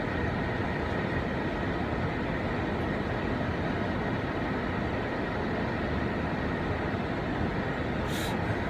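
Steady car noise heard from inside the cabin with the driver's window rolled down: engine and road rumble with an even hiss of outside air.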